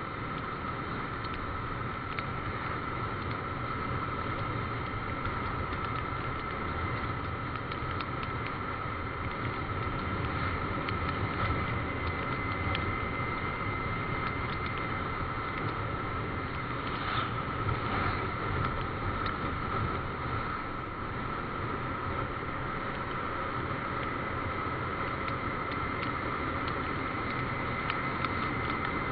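A motorcycle on the move: a steady rush of engine, road and wind noise, with a steady high whine over it.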